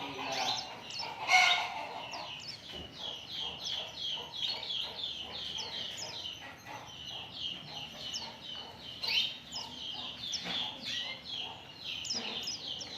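White-eye (pleci) singing: a fast, continuous run of high, downward-sliding chirps, several a second, with one louder, lower call about a second in.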